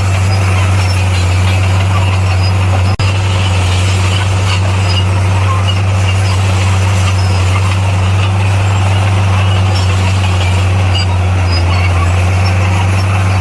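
Heavy construction machine's diesel engine running steadily with a deep, even hum, broken for an instant about three seconds in.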